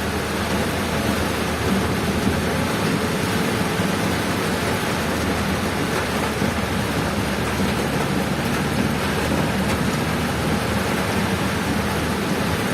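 Heavy rain and wind making a steady, dense rushing noise, with a low vehicle hum underneath.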